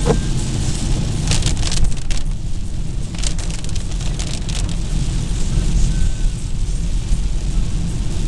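A car driving on a wet road in the rain: a steady low rumble with tyre hiss, and short bursts of swishing noise about a second in and again about three seconds in.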